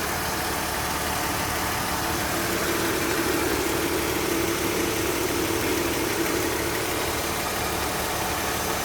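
BMW E46 328i's 2.8-litre straight-six idling steadily, heard from underneath the car, a constant even hum.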